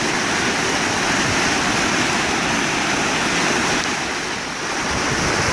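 Floodwater rushing steadily in a swollen stream in spate, a continuous roar of water.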